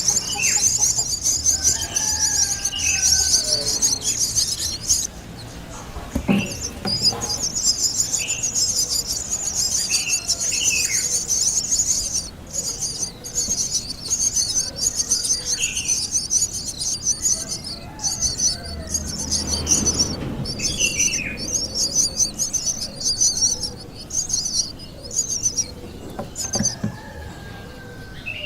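Birds chirping: short, falling chirps repeat every second or so over a continuous high, pulsing buzz, which starts to break off in short gaps about five seconds in.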